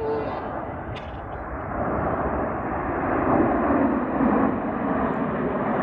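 Jet noise from the Red Arrows' BAE Hawk jets passing in formation: a steady rushing sound that grows louder from about two seconds in.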